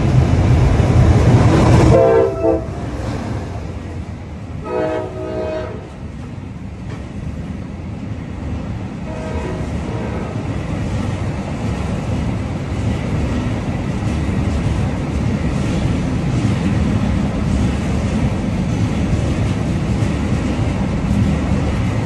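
A diesel locomotive passing close by. Its multi-tone horn sounds twice, about two seconds and five seconds in, with a brief fainter blast near nine seconds. The train's wagons then roll past with a steady rumble that slowly grows louder.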